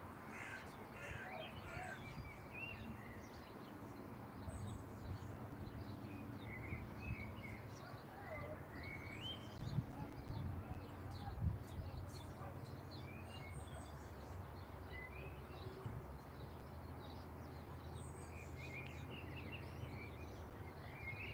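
Small birds chirping on and off, short high calls scattered through, over a low steady background rumble. Two short knocks sound about halfway through.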